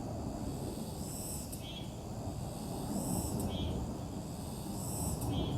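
A high-pitched animal call repeating about every two seconds, each one swelling and ending in a sharp click, over a steady low rumble of outdoor background noise.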